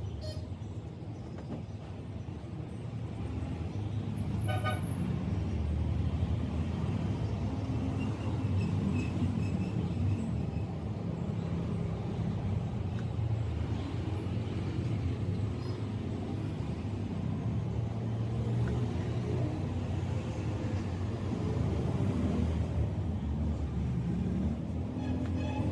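Road traffic rumbling steadily, with a short vehicle horn toot about four and a half seconds in and another near the end.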